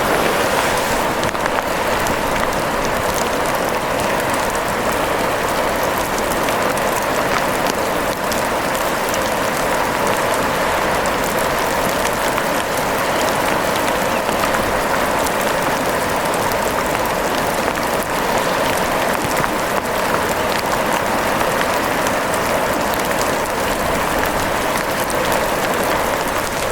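Steady rain falling, a dense, even patter of drops with scattered sharper taps.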